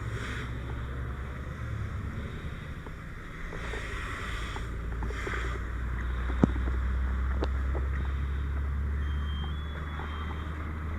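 Fire engine's diesel engine running with a steady low drone. Brief hissing rushes come through about four and five seconds in, and a single sharp click sounds midway.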